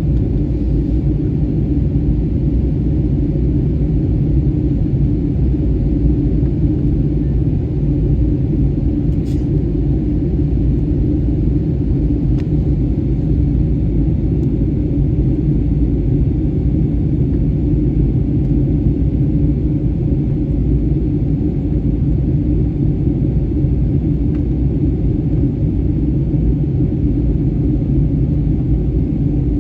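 Steady low rumble inside the cabin of a Wizz Air Airbus A320-family airliner during its descent: jet engine and airflow noise, even in level throughout.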